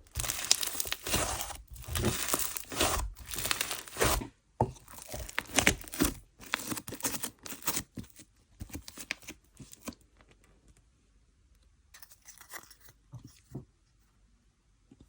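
Butter fizz slime being stretched and squished by hand, giving dense crackling and popping. The crackle thins out after about eight seconds, with a short burst again around twelve seconds.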